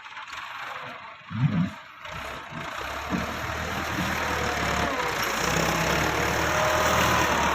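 Tractor diesel engine running, coming in about two seconds in and growing louder and steadier through the rest, after a brief loud low sound about a second and a half in.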